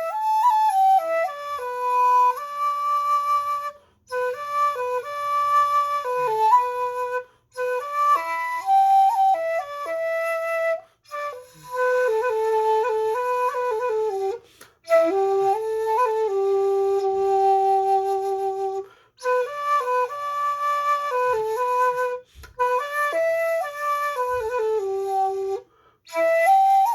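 A 1.6 shakuhachi (尺六) playing a slow solo melody of held notes with small slides between pitches. The phrases are separated by brief breath pauses, about every three to four seconds, and one long low note is held near the middle.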